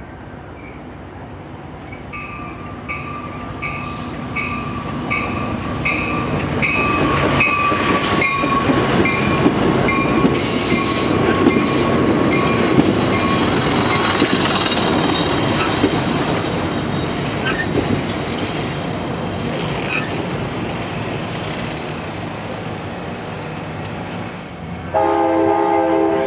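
Amtrak passenger train passing, its wheels on the rails swelling to a loud rumble with a regular clicking in the first half that then eases off. A train horn sounds abruptly near the end.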